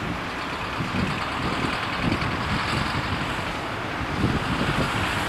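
Steady jet engine noise from an airliner, with gusty wind buffeting the microphone in low rumbles.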